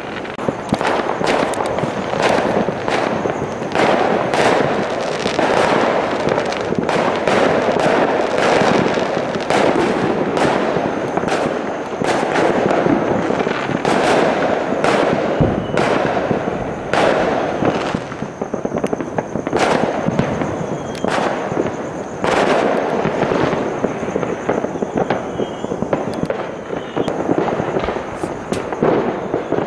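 Many private fireworks going off at once around the neighbourhood: a dense run of overlapping cracks and bangs over a continuous rumble.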